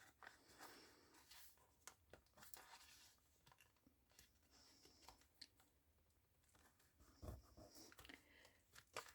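Near silence with faint, scattered taps and rustles of paper and card being handled.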